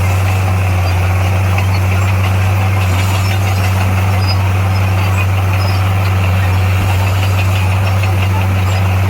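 Heavy diesel engine of earthmoving machinery running steadily, a constant deep hum with no change in speed.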